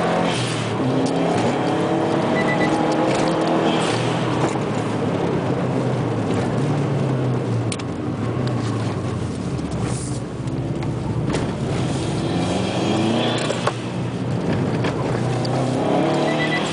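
Car engine heard from inside the cabin, its note climbing and dropping back several times as the car accelerates and eases off, over steady road and tyre noise.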